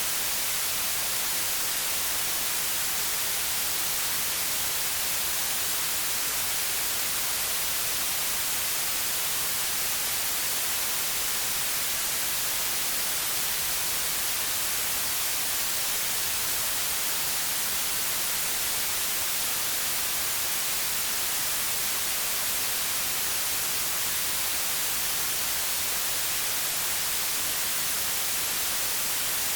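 Steady white noise: an even, unchanging hiss with no events, brightest in the high frequencies.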